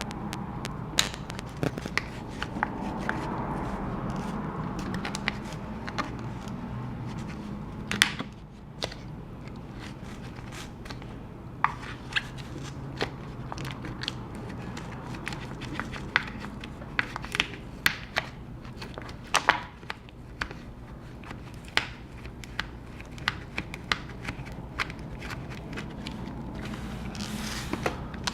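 Plastic pry card being worked under a glued MacBook Pro battery cell, with scattered sharp clicks and crackles as the adhesive is pried loose.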